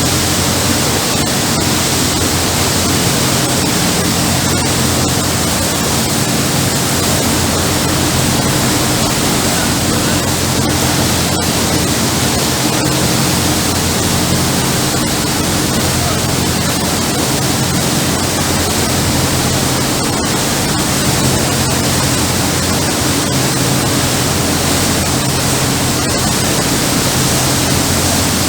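Steady rushing wind and water noise on a moving passenger water bus, with the vessel's engine droning low and even underneath.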